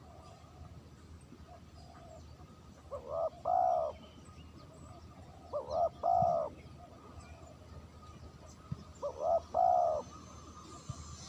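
Spotted dove cooing: three phrases about three seconds apart, each a short note followed by a longer note, with fainter short calls in between.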